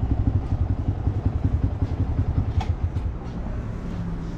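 Vehicle engine running with a rapid, pulsing low exhaust note, easing off about three seconds in.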